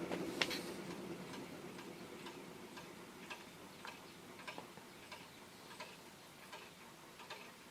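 Antique Century 60-inch ceiling fan coasting down after being switched off: the rush of moving air fades away over the first few seconds, while a faint, regular ticking goes on and its beats slowly spread out as the fan slows.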